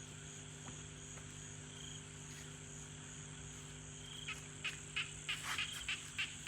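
Evening frog and insect chorus: a steady, faint insect drone, joined a little past four seconds in by a quick run of short repeated calls, about three a second.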